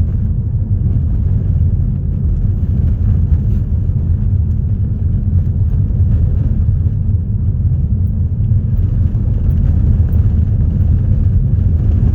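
A moving car's steady low road and engine rumble while driving along.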